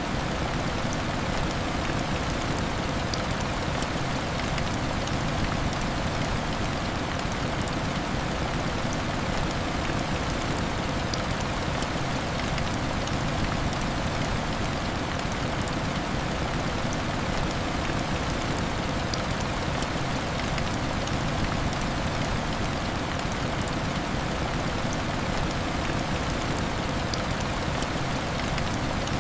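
Heavy rain falling steadily, an even rushing hiss with scattered faint ticks throughout.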